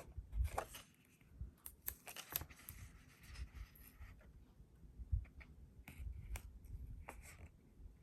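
Faint handling of paper and washi tape on a journal page: scattered soft clicks, rustles and short scrapes, a few louder ones about half a second and two seconds in, and again around five seconds in.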